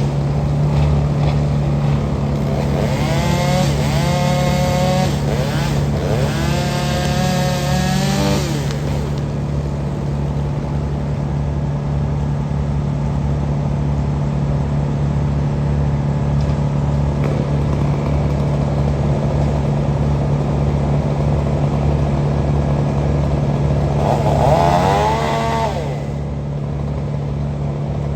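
A heavy equipment engine runs steadily throughout. Over it, a saw chain revs up and runs twice: from about three to eight seconds in, and again briefly around twenty-four seconds in.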